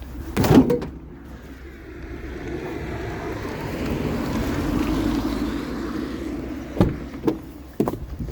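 A vehicle being driven, its running noise swelling over a few seconds and easing off as it is backed up. There is a sharp knock about half a second in and a few sharp clicks near the end.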